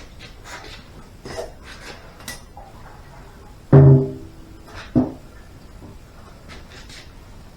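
Scattered clicks and taps of motorcycle parts being handled, with one loud hollow knock a little past halfway that rings briefly, and a sharper knock about a second later.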